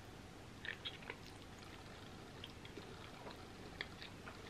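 Faint close-up chewing of a mouthful of soft macaroni and cheese, with small wet mouth clicks scattered through it.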